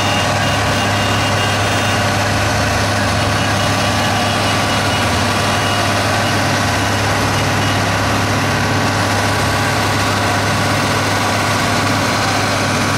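Heavy tractor engines idling steadily with a deep, unchanging hum.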